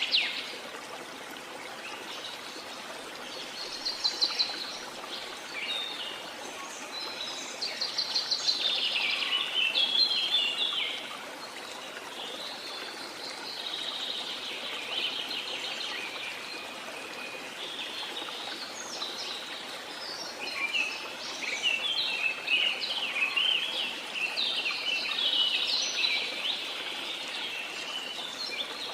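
Birds singing in rapid trills and chirps, in bursts throughout, over a steady wash of running water.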